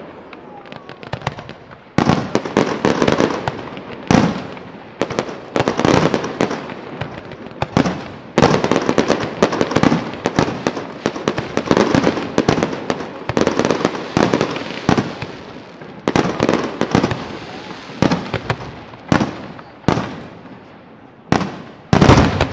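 Aerial fireworks display: a rapid series of sharp shell bursts, each trailing off in a rolling echo, the bangs coming thick and fast throughout. The biggest bursts fall about 2, 4 and 8 seconds in and again just before the end.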